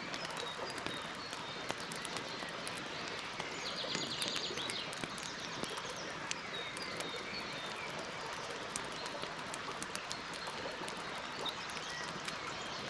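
Campfire crackling with frequent sharp pops, with birds chirping in the background and a short, fast bird trill about four seconds in.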